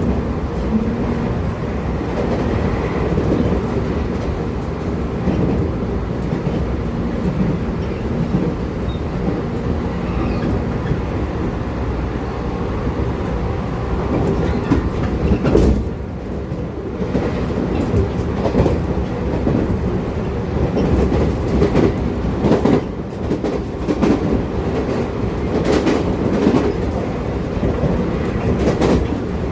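JR Kyushu 811 series electric train running between stations, heard inside motor car MoHa 811-1: a steady running rumble with the wheels clacking over rail joints, the clacks coming more often in the second half.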